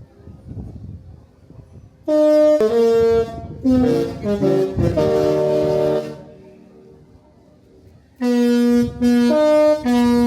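Disney Wish ship's musical horn sounding a tune: loud held horn notes that change pitch, in two phrases about two seconds apart, as the ship signals its departure.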